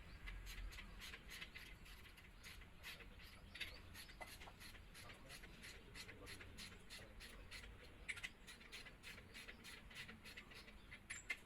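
Faint, irregular rapid clicking and scratching, several clicks a second, over a quiet background.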